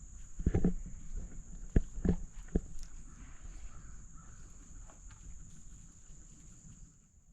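A handful of sharp knocks and clatters in the first three seconds, then quieter scattered handling sounds, over a steady high-pitched hum.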